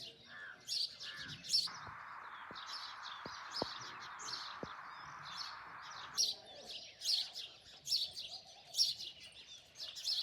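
Small birds chirping, many short high chirps following one another, several calls a second. A steady hiss runs under them from about two seconds in until about six seconds in, then stops suddenly.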